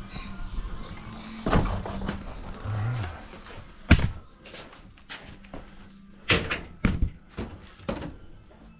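A series of sharp thunks and knocks a second or two apart, the loudest about four seconds in and another pair near six and seven seconds, like doors shutting or things being set down, over a faint steady hum.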